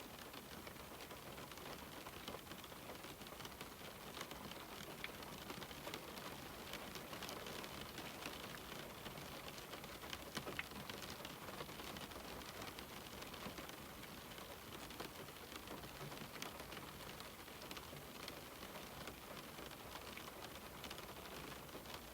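Steady rain falling, with many fine, irregular drop ticks over an even hiss.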